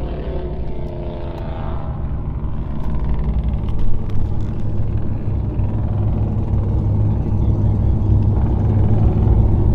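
A vehicle engine running with a steady deep rumble, growing louder from about three seconds in.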